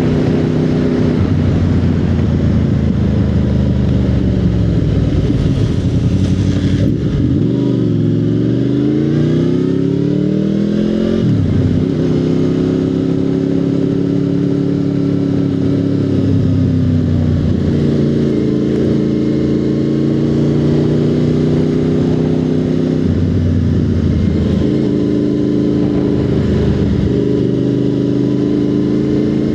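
Motorcycle engine running under way. Its pitch dips about seven seconds in, climbs steadily for a few seconds as it accelerates, drops suddenly near eleven seconds, then holds fairly steady at cruising speed.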